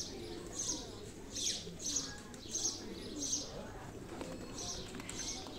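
Birds chirping, a short high call about every half second, with lower cooing underneath.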